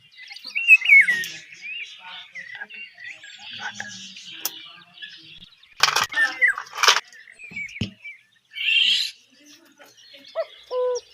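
Small birds chirping and twittering, with two sharp knocks about six and seven seconds in.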